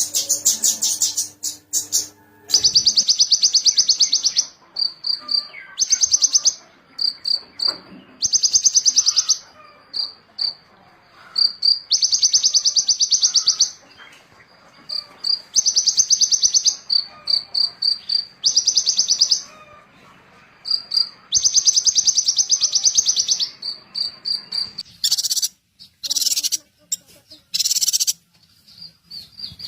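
A small songbird repeating a fast, high-pitched trill of about a second and a half, again and again, with short single chip notes between the trills. Near the start and again near the end, a different run of sharp, clipped calls takes over.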